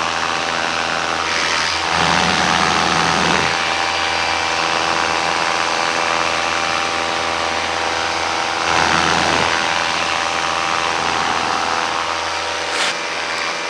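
Paramotor engine and propeller running steadily at high power for a launch, a constant drone with brief swells of rushing noise about two seconds and nine seconds in.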